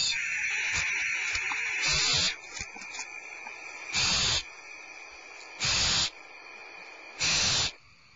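Barn owl nestlings begging with rasping hisses: a continuous hiss for about two seconds, then three separate half-second hisses roughly a second and a half apart.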